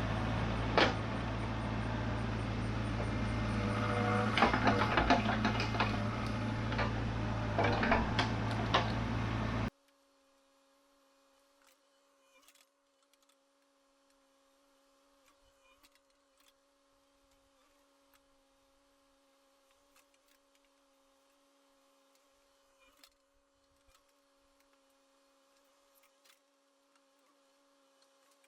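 Excavator's diesel engine running steadily, with irregular metallic clanks and scrapes from the working machine. Near the ten-second mark it cuts off abruptly, leaving near silence with a faint steady hum.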